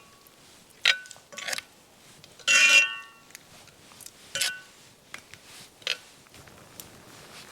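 Metal cooking utensils and cookware clinking against each other, about five separate knocks, some with a brief ringing tone, the loudest about two and a half seconds in.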